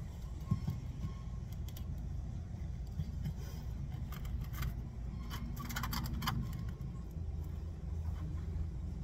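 Light clicks and metallic rattles of small tools or thin metal being handled, clustered about halfway through, over a steady low rumble.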